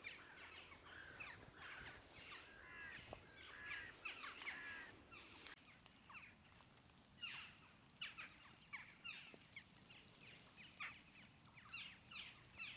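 Faint birdsong: small birds twittering in quick high chirps and short falling notes, busier in the first few seconds and thinning to scattered calls.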